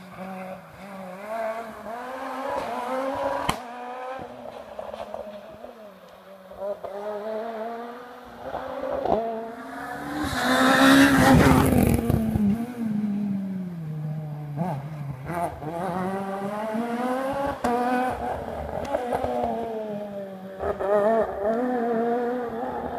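Rally car engine revving hard through repeated gear changes, the pitch climbing and dropping again and again. It is loudest about ten to twelve seconds in, with a burst of tyre noise, then the pitch falls away before another run of rising revs near the end.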